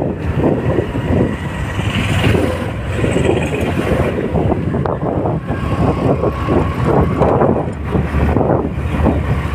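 Wind buffeting the microphone in uneven gusts over a steady low vehicle engine hum.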